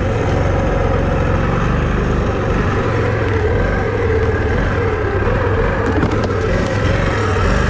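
Four-wheel-drive vehicle's engine running continuously under load while driving through deep snow. Its note wavers slightly up and down with the throttle.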